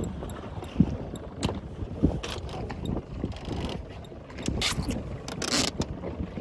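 Small boat at sea with wind on the microphone: a steady low rumble with scattered knocks, and two short rushing bursts of noise about four and a half and five and a half seconds in.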